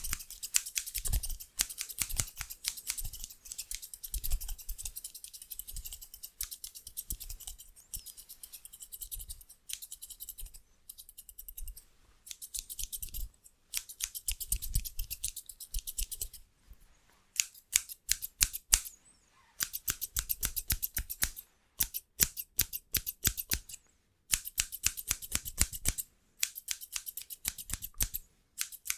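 Hair-cutting scissors snipping very fast and hard, many crisp snips a second, in quick volleys broken by short pauses.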